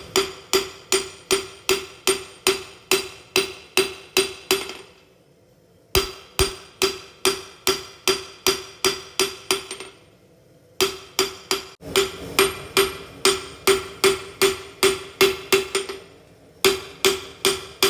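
Blacksmith's hammer striking an anvil in steady runs of about three blows a second, each blow ringing. The runs are broken by short pauses about five, ten and sixteen seconds in.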